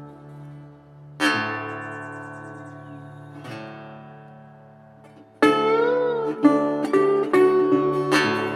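Guitar music: a chord struck and left ringing as it fades, then a louder strummed passage in which one note wavers up and down in pitch.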